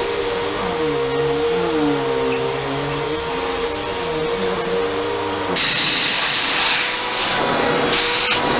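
Hoover WindTunnel Elite Max upright vacuum cleaner running after a cord repair, its brush roll spinning properly. The motor's hum wavers in pitch, then about five and a half seconds in the sound changes to a louder, airier hiss.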